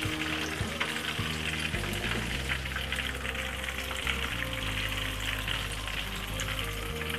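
Breaded chicken cutlet shallow-frying in hot oil in a pan: a dense, steady crackle and sizzle, with soft background music underneath.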